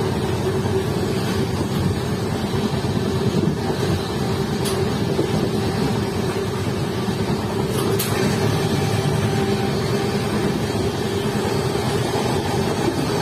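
Indian Railways passenger coach running at about 95–100 km/h, a steady low rumble heard from the vestibule by the door.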